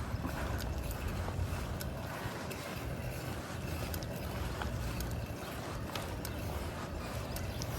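Steady wind buffeting on the microphone and rolling noise from a moving bicycle on a city street, with scattered small clicks and rattles.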